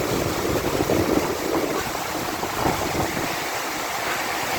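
Heavy rain pouring steadily, with gusts of wind rumbling on the microphone during the first few seconds.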